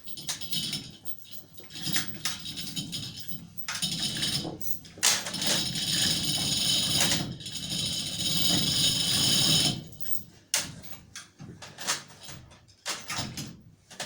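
Hand winch ratcheting as an engine is lowered on it: scattered metallic clicks and knocks, then a steady rapid ratchet rattle for about five seconds from about five seconds in, with a brief break midway.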